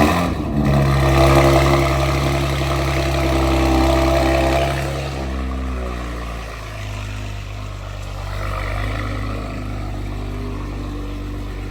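Audi RS5 twin-turbo V6 with 034 Motorsport high-flow downpipes and an AWE track exhaust, just started and held at a high start-up flare, then dropping to a steady, deep idle about five seconds in.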